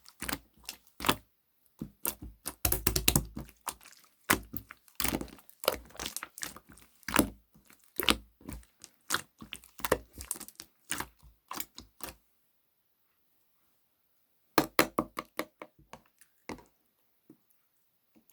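Jelly-textured slime being worked by hand, giving many sharp pops and crackles in quick runs. It goes quiet for a couple of seconds about two-thirds of the way in, then a short run of pops follows.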